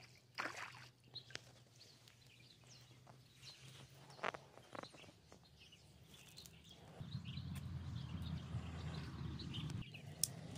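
Faint bird chirps over quiet outdoor background, with a few sharp clicks and rustles of handling. A low rumble sets in about seven seconds in and stops just before the end.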